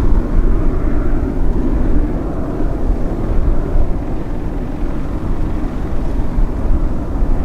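Jet engines of a Boeing 767-300 airliner running, a steady, loud, deep noise with no change in pitch.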